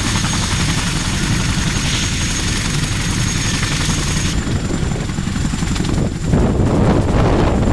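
CH-47 Chinook helicopter running: a loud, steady drone of its rotors and turbine engines with a thin high whine. About four seconds in the sound changes abruptly, and near the end a louder, gusty rush comes in.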